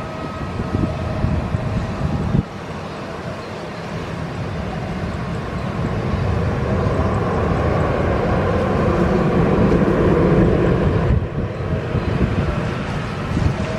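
Jet airliner engines running, a steady rush of noise that swells to its loudest about ten seconds in and then eases, with a faint whine riding on it and wind buffeting the microphone.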